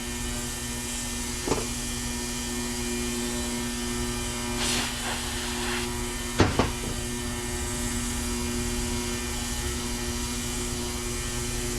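Steady electric hum, with a few light clicks and a short hiss a little under five seconds in.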